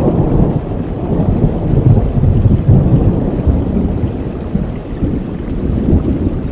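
Thunder rumbling over steady rain, swelling to its loudest two to three seconds in, then slowly easing and rising a little again near the end.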